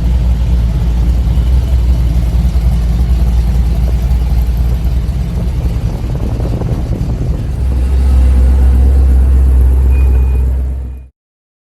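Car engine running close by with a steady low note, growing louder about eight seconds in, then cut off abruptly near the end.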